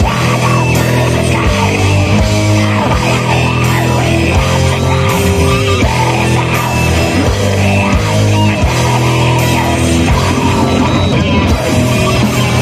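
Live metal band playing loudly: distorted electric guitars and bass over steady drum hits.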